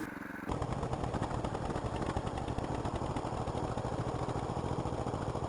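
Small single-cylinder engine of a tracked walk-behind tractor running steadily, its exhaust giving a rapid, even train of pops that starts about half a second in.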